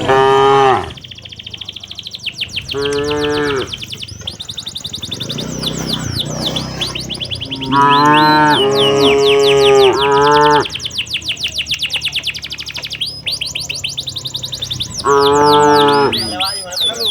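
Cattle mooing: a moo at the start, another about three seconds in, a longer run of moos about halfway through and one more near the end. Steady high bird chirping carries on underneath.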